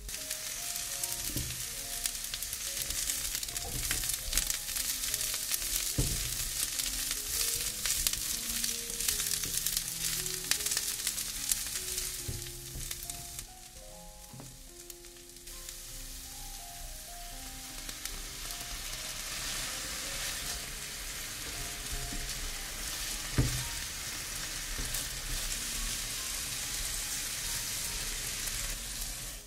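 Food sizzling as it fries in oil in a pan, with a couple of sharp clicks of a utensil against the pan; the sizzle dips briefly about halfway through.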